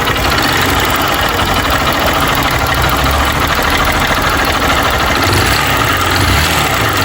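Small single-cylinder motorcycle engine running steadily with a fast, loud clattering knock inside it, a terrible noise even though the engine was rebuilt two months earlier. The mechanic hears it in the rocker arms and rollers and hopes it is not the connecting rod.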